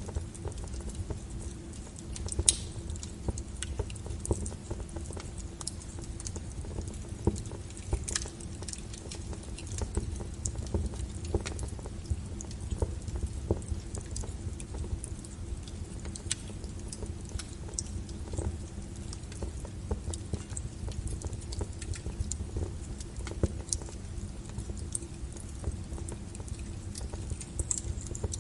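Wood logs burning in a fireplace, crackling with irregular sharp pops over a low steady rumble of the flames; the loudest pop comes about two and a half seconds in.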